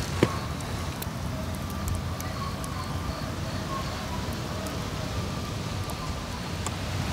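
Wood fire crackling in a lightweight mesh fire pit: scattered small pops, with one sharper pop just after the start, over a steady low rumble.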